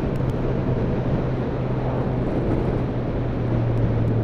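Motorcycle engine running at a steady pitch while riding along, with wind noise on the microphone.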